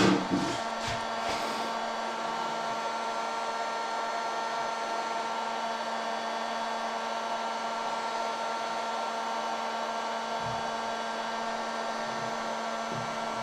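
Electric heat gun running steadily, a fan whir with a fixed hum. A loud knock at the very start and a few lighter clicks in the first second or so.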